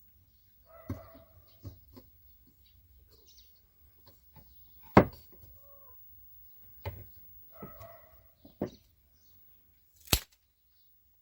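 Wooden chopsticks being cut: a few sharp cracks several seconds apart, with short squeaky pitched sounds in between.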